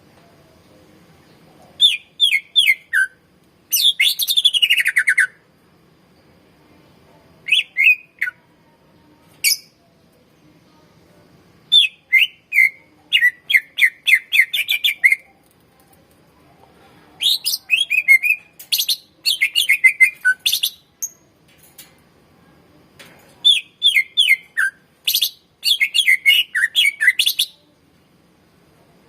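Cucak ijo (greater green leafbird) singing in several phrases of fast, chattering high notes with quick downward sweeps, each phrase lasting up to about four seconds, with short pauses between them.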